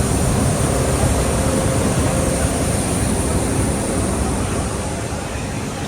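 Jet aircraft engine noise, a steady rushing sound that eases slightly near the end.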